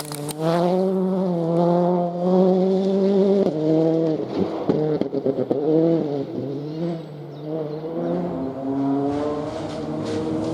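Rally car engine held at high revs, then lifting off about three and a half seconds in with a few sharp cracks, before the revs build again.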